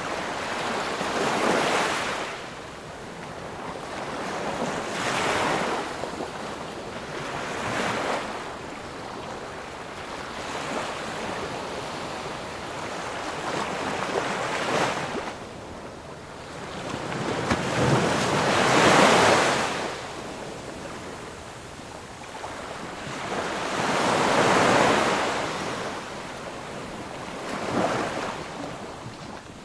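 Ocean waves breaking and washing on a shore, a hiss that swells and falls in surges every few seconds, the loudest break about two-thirds of the way through.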